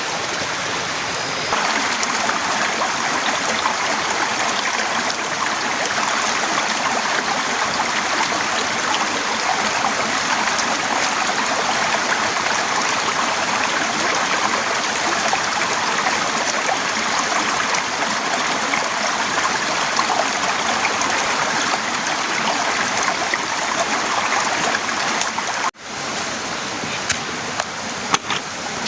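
Torrential rain pouring down steadily, a dense even hiss. It steps up louder about a second and a half in, breaks off for an instant near the end, and a few sharp clicks follow.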